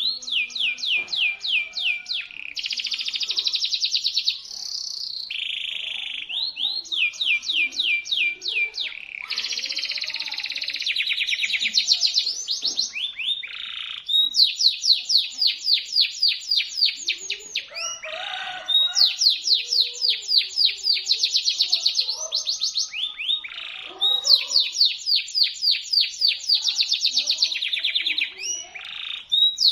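Local canary singing a shrill, sharp song: long trills of rapidly repeated notes, one roll after another with only brief breaks between them.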